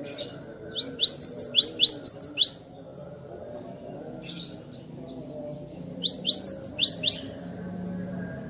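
Glatik batu (cinereous tit) singing: two quick bursts of sharp, rising chirps, about eight notes in the first burst and six in the second.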